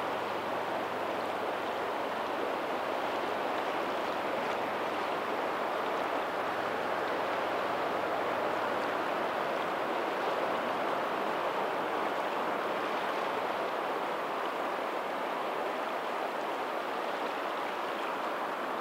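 Steady rush of water from a lagoon's tidal outflow running into the sea, blended with faint distant ocean waves.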